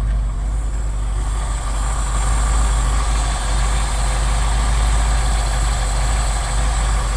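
1980 Ford F100's 302 V8 with a two-barrel carburettor idling steadily.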